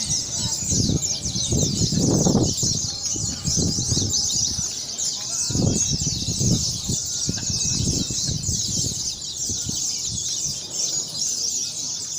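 Many caged oriental white-eyes (pleci) singing at once: a dense, unbroken high-pitched twittering of rapid chirps. Low murmuring voices come and go underneath.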